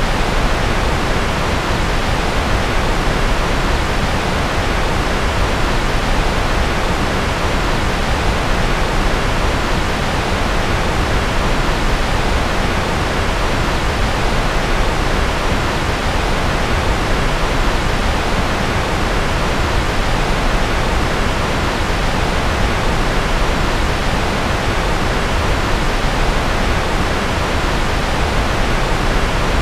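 Generated noise track sold as white noise: a continuous, even hiss that never changes, fuller in the low end and thinning toward the highs.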